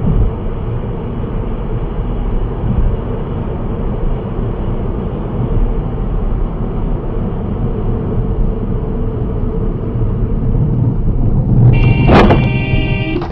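Steady engine and road noise from a car in motion, heard from inside the cabin. Near the end a car horn sounds for about a second and a half, with a sharp bang in the middle of it.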